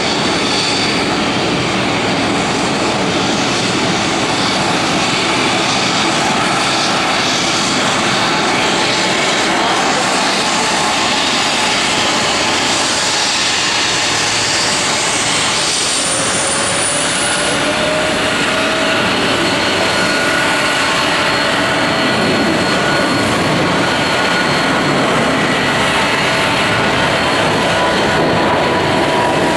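Boeing 747-400's four turbofan engines running at taxi power, a steady jet rush with a whine that rises in pitch a little past halfway as thrust is added.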